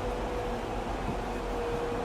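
Santiago Metro AS-02 train running between stations, a steady rumble and hiss of the moving car with a faint whine that sinks slightly in pitch.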